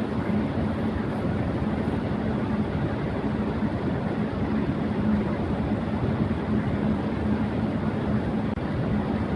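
Electric fan running at high speed: a steady rush of air with a constant low hum under it.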